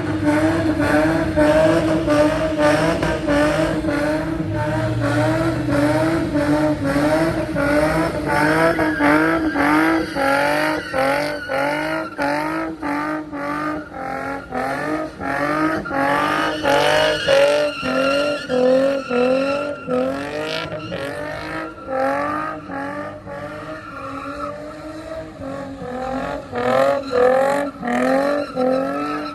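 A car drifting or doing donuts, its engine revs climbing and falling in quick repeated pulses about twice a second, with tyres squealing and skidding on the pavement.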